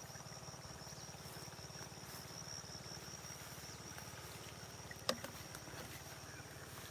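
Rural field ambience: a steady high insect trill over a low, rapidly pulsing mechanical hum, with one sharp click about five seconds in.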